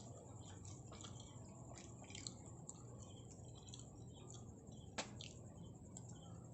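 Faint close-up chewing of kimbap: soft, wet mouth clicks and smacks, with a sharper click about five seconds in.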